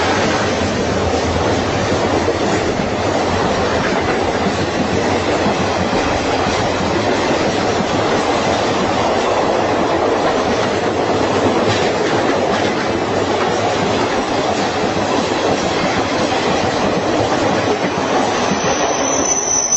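A train running past with a steady, loud rolling noise of wheels on rails. A high, steady whine comes in near the end.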